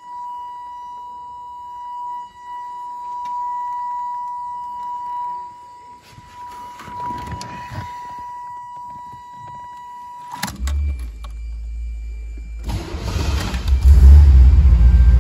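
A steady warning chime tone sounds for about ten seconds, then stops with a click as the key is turned. The 1984 Corvette's 5.7 L V8 then cranks and catches, with the engine running loudest near the end.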